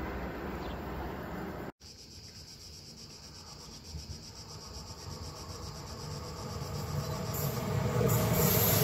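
Trenord electric train approaching on the rails, its running noise growing steadily louder as it nears.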